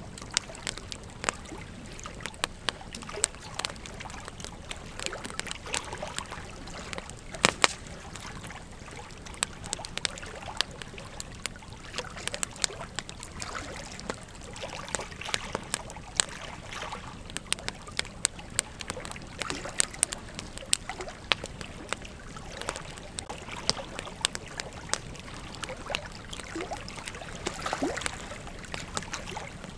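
Campfire burning wood, crackling and popping irregularly over a steady low hiss, with a sharp double pop about seven seconds in.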